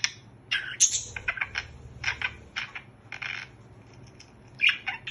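Pet budgie making short, scattered clicks and chirps, about a dozen irregular sharp little sounds over a few seconds.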